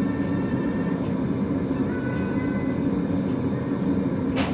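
Forge running with a steady low rush of air, as from the blower feeding the coal fire or a burner. A short sharp click comes near the end.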